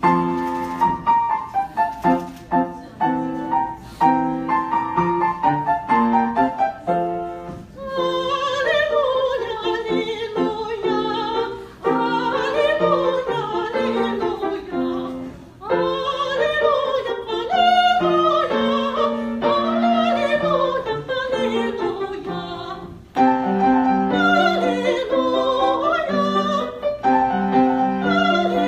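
Classical-style song: a piano plays alone for about the first eight seconds, then a solo voice comes in singing with vibrato over the piano accompaniment, pausing briefly between phrases.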